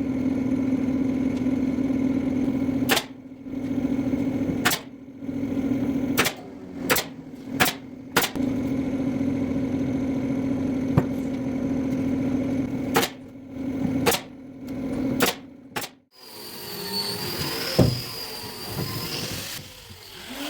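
Electric power tool motor running with a steady hum, stopped and restarted several times in quick succession, with sharp clicks at the stops. Near the end it gives way to quieter, mixed workshop sounds.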